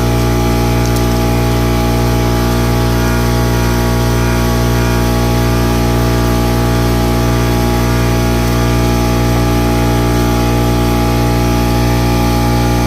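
A motor-driven machine running at a loud, perfectly steady hum with many even tones, no change in speed.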